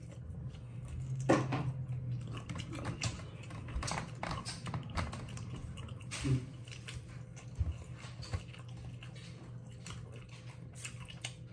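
A person chewing and biting pork ribs: scattered wet mouth clicks and bites, a few louder ones, over a steady low hum.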